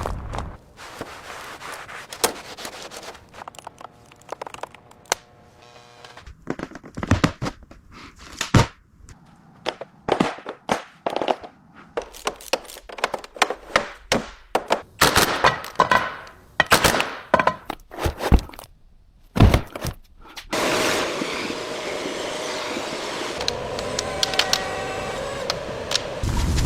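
A long run of separate knocks, clanks and cracks of hand work on a car, irregular and of varying loudness. About twenty seconds in, a steady machine noise with a faint hum takes over.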